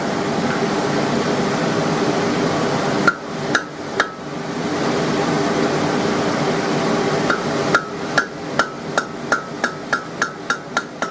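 Hand hammer striking hot steel on an anvil: three blows about three seconds in, then a steady run of blows about two to three a second from about seven seconds in, each with a short metallic ring. A steady fan-like hum runs underneath.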